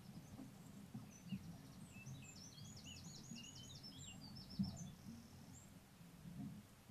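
Faint songbird song: a quick run of chirps and trills over a few seconds, with a low rustling background and one soft thump about four and a half seconds in.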